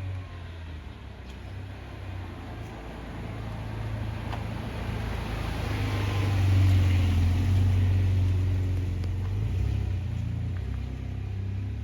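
A car driving past, its engine and tyre noise growing louder to a peak a little past halfway, then slowly fading.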